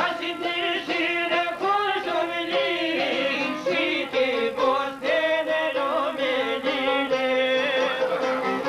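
Albanian folk music: a violin plays an ornamented, wavering melody over a steady held accompaniment.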